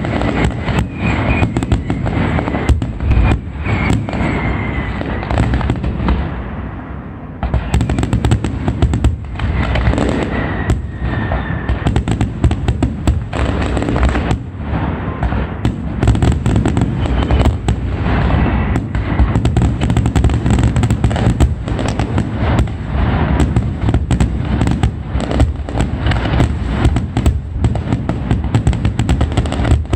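Fireworks display in a dense barrage, a rapid continuous run of bangs and cracks. It eases briefly about seven seconds in, then picks straight back up.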